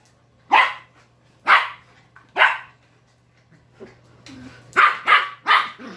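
Dog barking in short, sharp barks: three about a second apart, then after a pause a quicker run of three near the end.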